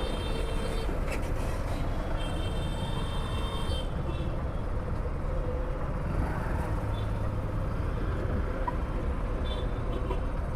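Steady low rumble of riding a Hero Passion Xtec motorcycle in traffic, its single-cylinder engine mixed with wind and road noise on the riding mic. A faint horn toots in the traffic about two to four seconds in.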